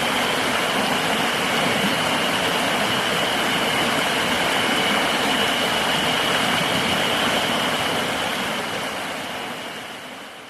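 River water rushing steadily, with a continuous high, even insect drone over it; the whole sound fades out over the last couple of seconds.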